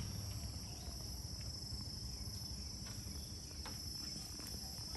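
Steady, high-pitched drone of insects, with a few faint ticks.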